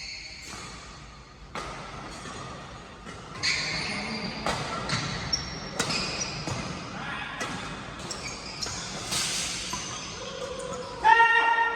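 Badminton rally: rackets striking the shuttlecock again and again on an indoor court, with voices in the hall around. A loud pitched tone comes in near the end.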